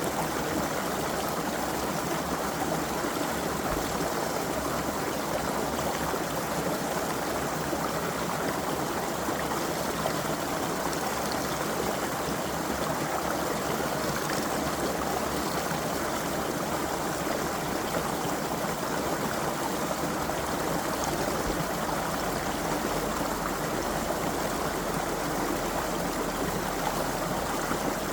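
Creek water flowing and babbling steadily over stones, an even rushing with no breaks.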